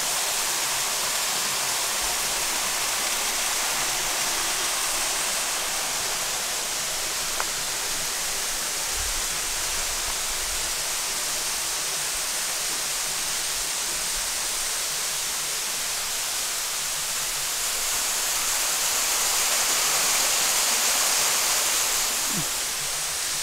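Waterfall: a steady rush of falling water, swelling a little in the hiss near the end.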